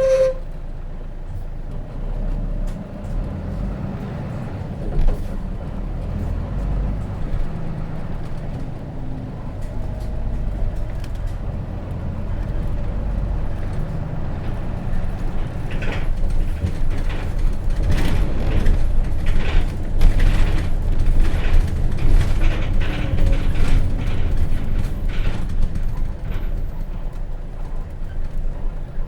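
Inside a Hino RJ city bus on the move: its J08C six-cylinder diesel runs under the floor with a steady low rumble, while the body and fittings rattle and creak, the rattling growing busier and louder from about halfway through.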